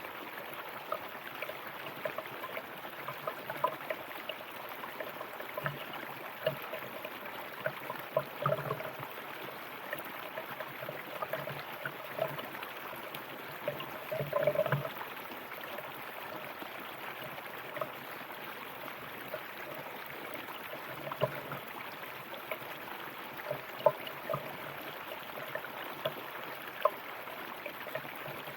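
River water flowing over rocks: a steady rush with frequent small splashes and gurgles, and a louder gurgle about halfway through.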